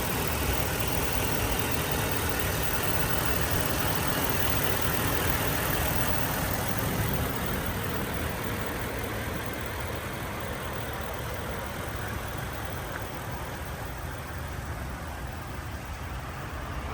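2020 Ford F-250 Super Duty pickup's engine running steadily at idle, easing a little quieter about seven seconds in.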